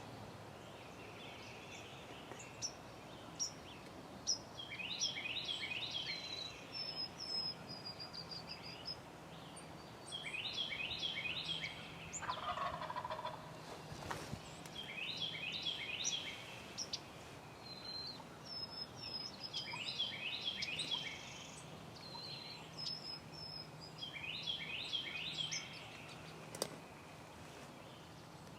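Eastern wild turkey gobbler gobbling repeatedly, five rattling gobbles about five seconds apart, with thin higher bird chirps in between.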